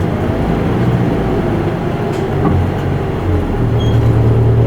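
Isuzu Erga Mio city bus running, heard from inside the cabin: the four-cylinder turbo-diesel drones under way with road noise. The engine note shifts early on, then settles into a strong, steady hum a little past halfway.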